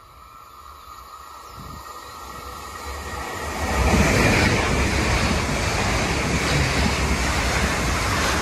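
Deutsche Bahn ICE high-speed train approaching and passing at speed: a rushing noise that swells steadily, peaks about four seconds in as the train reaches the platform, and stays loud as the coaches go by.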